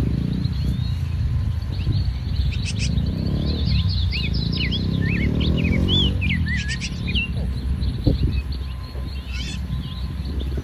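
Small birds chirping in a quick run of short, high twittering notes, busiest in the middle, over a steady low outdoor rumble.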